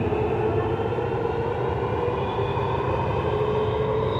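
Cabin noise inside a moving SP1900 ("千九") electric train car on the MTR Tuen Ma line. A steady rumble carries several humming whines, and some of the higher whines rise a little near the end.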